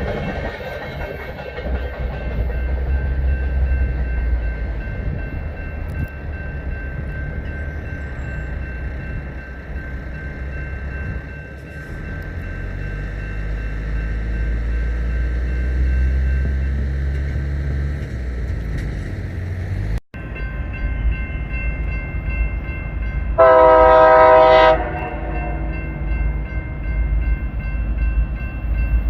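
Freight train running past with a steady low rumble of diesel locomotives and rolling cars. After a break, a diesel locomotive's horn sounds one blast lasting about a second and a half.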